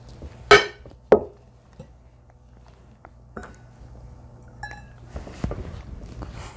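Table and eating noises: two short sharp knocks or clinks, about half a second in and again a second in, a few faint ticks, then a soft rustling noise near the end.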